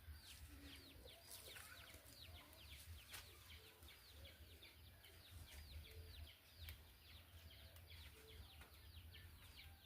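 Faint, continuous bird chirping: many short, falling chirps a second, over a low steady hum.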